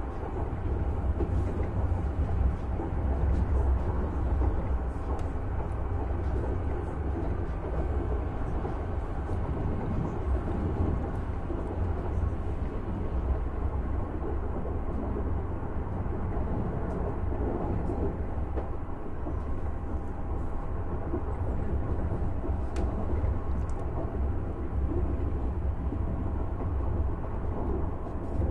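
Steady running rumble of a ČD class 471 CityElefant double-deck electric train, heard from inside the passenger car while under way, with faint light ticks now and then.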